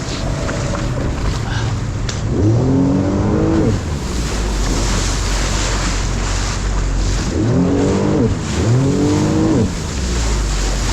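Jet ski engine revving up and easing off three times: once about two seconds in, then twice in quick succession near the end. Steady wind and water rush run underneath.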